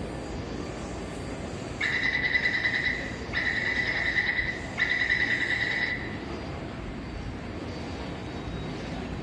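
Taipei Metro door-closing warning: three long, evenly pitched beeps in a row, about a second each with short gaps, over the steady hum of the station and train.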